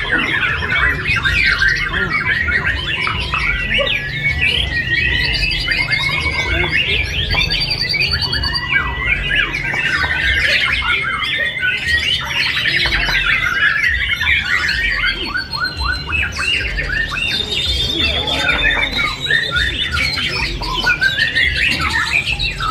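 Many caged songbirds singing at once in a bird-singing contest: a dense, unbroken chorus of overlapping fast chirps, trills and whistles, over a steady low rumble.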